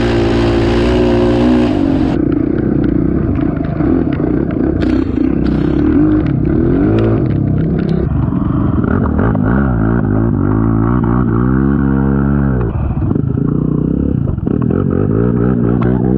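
Honda TRX450 ATV's single-cylinder four-stroke engine running while being ridden, its pitch rising and falling repeatedly as the throttle is worked, with scattered clattering.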